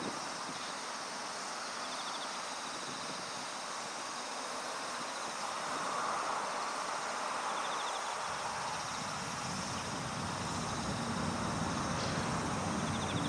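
Electric Oxy3 RC helicopter flying 3D manoeuvres, its motor and rotor sound heard at a distance through wind noise on the microphone; a lower rotor drone grows louder over the last few seconds.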